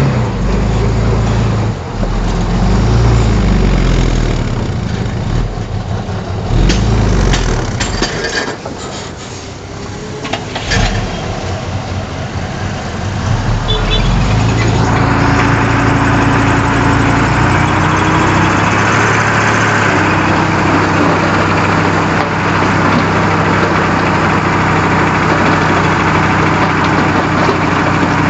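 Heavy machinery's engine running, its pitch rising and falling over the first several seconds, then easing off with a few sharp knocks. About halfway through it settles into a steady, even run.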